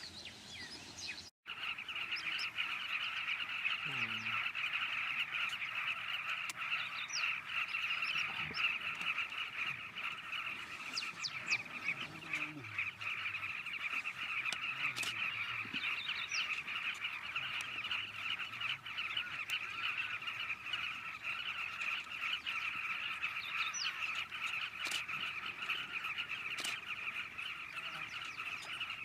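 A dense, unbroken chorus of many birds calling at once, a steady mass of chattering, with a few low calls falling in pitch underneath during the first half.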